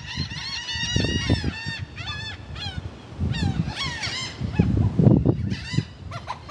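A flock of seagulls calling over one another: quick runs of harsh, high, repeated calls overlapping throughout.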